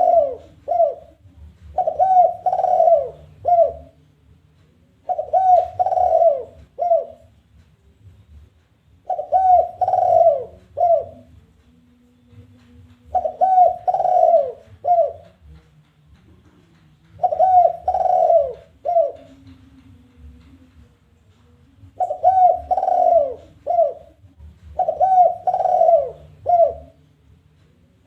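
Spotted dove (tekukur) cooing its challenge call: a phrase of three or four coos, the last note set a little apart, repeated about every three to four seconds. This territorial challenge call is used as a lure to draw other doves in.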